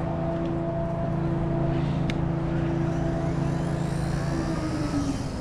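XK K110s micro helicopter's electric motor and rotors whining steadily in a hover, its pitch dipping slightly about four seconds in, with wind rumbling on the microphone.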